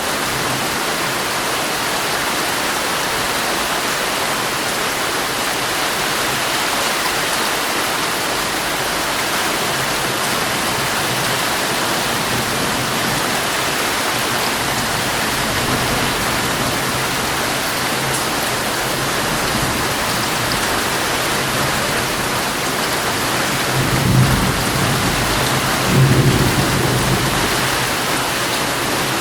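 Heavy rain falling on a tent, a steady dense hiss. Low thunder rumbles twice near the end.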